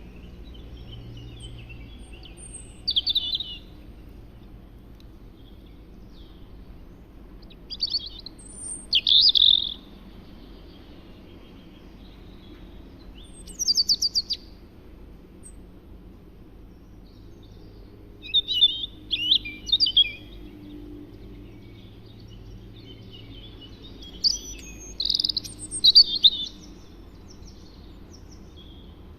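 A songbird singing in short bursts of high chirping notes, about five phrases a few seconds apart, over a low, steady background noise.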